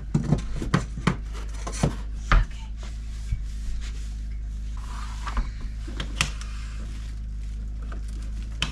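Wooden tongue-and-groove boards knocking and sliding against each other as they are handled and sorted, with scattered sharp clacks and rubbing over a steady low hum.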